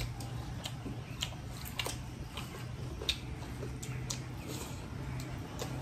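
Eating sounds from people chewing mouthfuls of rice and meat curry eaten by hand: scattered, irregular wet clicks and smacks over a low steady hum.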